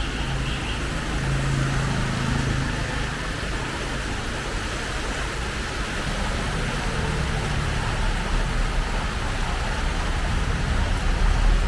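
Road traffic on a city main street: a steady hiss of passing vehicles with a low engine hum.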